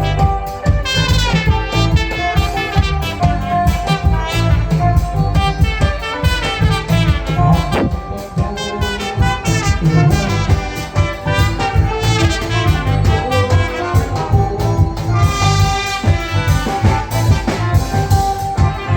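Live band music in an instrumental passage with no singing: a horn-like lead melody over bass and a steady drum beat.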